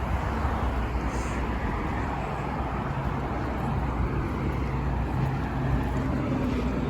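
Street noise in strong wind: road traffic running by, with wind rumbling low on the microphone. A low steady hum joins about halfway through.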